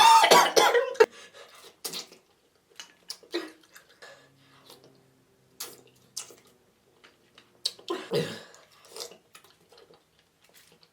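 Close-miked eating sounds of a person eating a spicy seafood boil: a loud cough-like burst at the start, then scattered wet smacks and clicks of chewing, with another throaty burst about eight seconds in.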